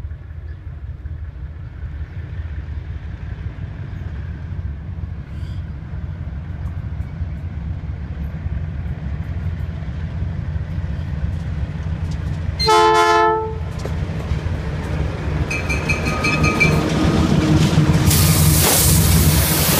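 Diesel freight locomotives approaching on the rails: a steady low engine rumble that grows louder, with one short horn blast about two-thirds of the way through. Near the end the locomotives pass close by, loud engine and wheel-on-rail noise, with a thin high squeal just before.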